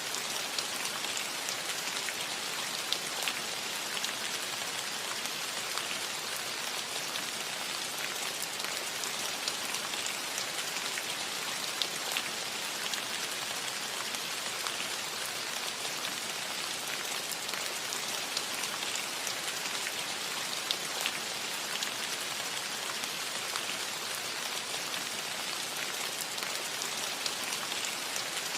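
Steady rain falling on a cottage roof: an even hiss with scattered single drops ticking out above it.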